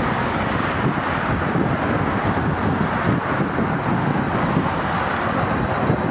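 Jet airliner engines running with a steady roar, while gusty wind buffets the microphone with a low, uneven rumble.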